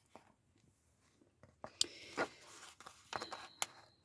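Faint rustling and a few light clicks of a paper cutout being handled and pressed onto a journal page, starting about halfway through after near silence.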